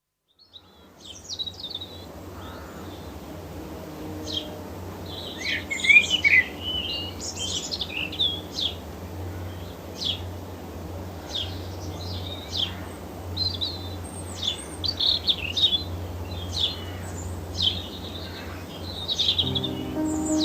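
Several birds chirping and singing, short calls and trills one after another, over a steady low background hum.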